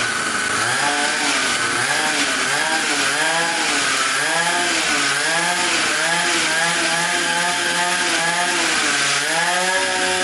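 Cheap Chinese 50cc two-stroke engine running and being revved up and down over and over, with a rise and fall in pitch about once a second.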